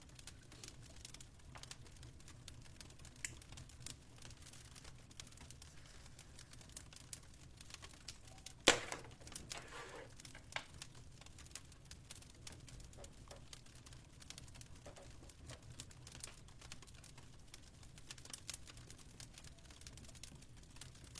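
Fireplace crackling faintly over a low steady hum, with small irregular clicks and one sharp loud snap about nine seconds in, trailing into a brief rustle.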